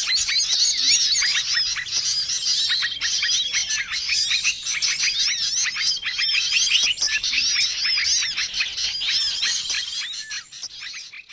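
A busy bird-lure chorus of many small songbirds chirping and calling over one another, with high rapid chirps and a dry rattling trill that comes twice. It fades out near the end.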